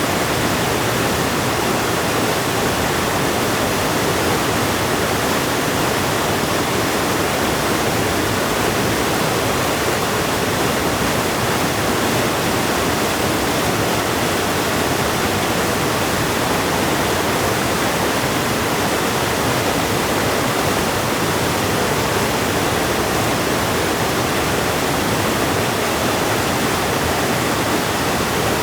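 River water rushing, a steady, unbroken rush.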